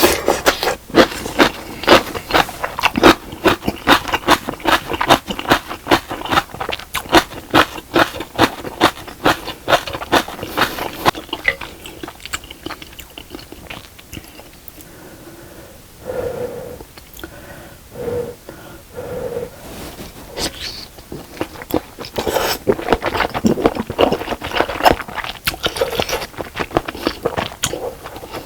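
A person chewing food close to the microphone, with rapid sharp clicking mouth sounds about three or four times a second. The chewing eases off for a while midway, with a few short low hums, then picks up again.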